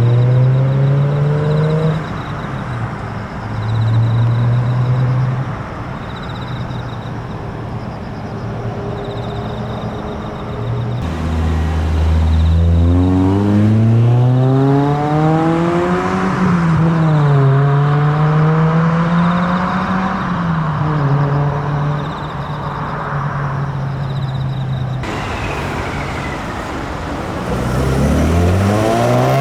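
Car engines revving and accelerating: engine pitch climbs, drops and climbs again as if changing gears, from about a third of the way in, and another car starts a rising rev near the end.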